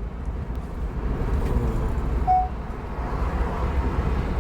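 Steady low road and engine rumble heard inside a car cabin while driving at about 70–80 km/h, with one short beep about two seconds in.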